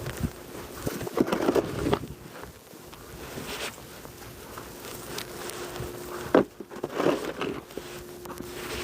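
Footsteps crunching through deep snow: a few uneven, heavy steps with pauses between them.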